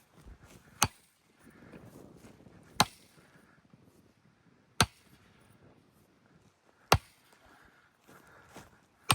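Five sharp clicks or knocks, evenly spaced about two seconds apart, over low background noise.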